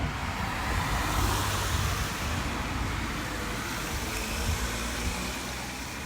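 A car passing on a wet road: tyre hiss that swells about a second in and slowly fades, over the steady hiss of rain.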